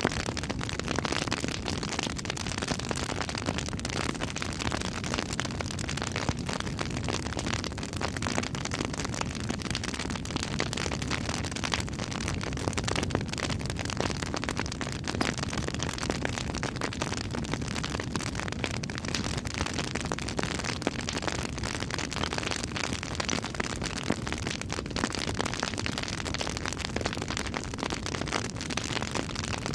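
Campfire burning, with a dense, steady crackle of many small pops and snaps.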